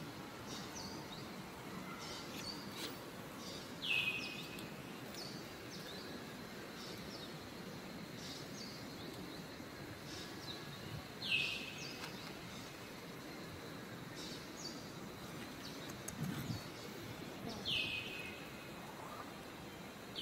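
Outdoor woodland ambience with a bird calling: a short falling whistle, three times a few seconds apart, among fainter high chirps.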